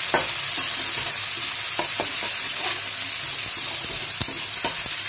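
Crushed garlic and ginger sizzling in hot mustard oil in a steel kadhai, stirred with a spatula. A steady hiss runs throughout, with scattered light clicks and scrapes of the spatula against the pan.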